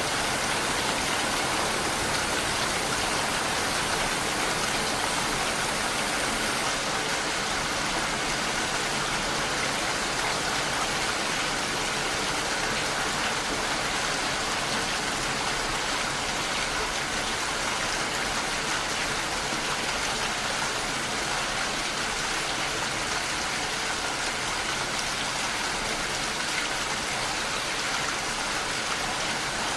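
Steady rain falling: an even, continuous hiss of many drops, with no distinct single impacts or thunder.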